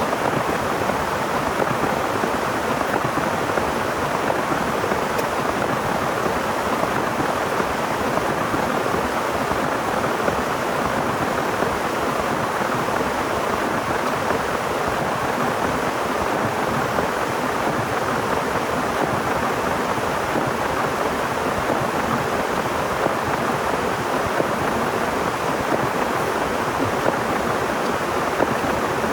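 Heavy rain falling steadily, an even rushing hiss with no let-up.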